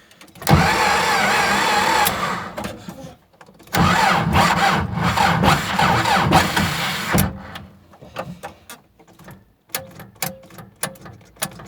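Magneton 2.7 kW geared electric starter cranking the T-40 tractor's cold diesel in two bursts of about three seconds each, with a wavering whine over the turning engine; the starter is acting up on a weak battery. After the second burst come scattered clicks and ticks.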